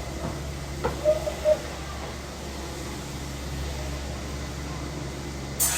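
Urban alley ambience. A steady low mechanical hum runs throughout, with a few brief faint knocks and short tones about a second in. A sudden loud hiss starts just before the end.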